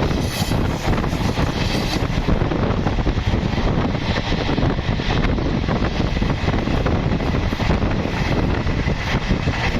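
Diesel-hauled passenger train rolling past close by: a loud, steady rumble and rush of wheels and cars on the track, with wind on the microphone.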